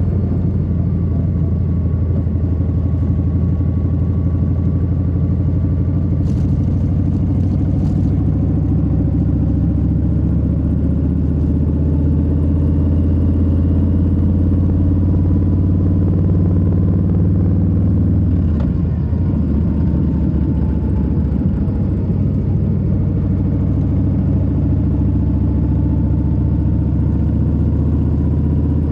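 2022 Harley-Davidson Low Rider S's Milwaukee-Eight 117 V-twin running steadily while cruising, with a brief drop in the engine note about two-thirds of the way through.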